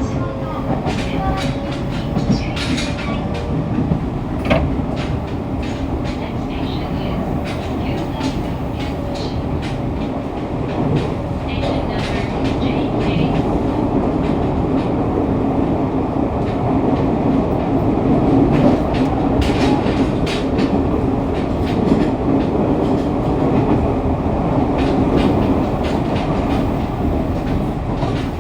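Fukuoka City Subway 2000 series train with Hitachi GTO-VVVF traction running between stations: steady wheel-and-rail rumble with motor hum, picked up at floor level, with scattered clicks of wheels over rail joints.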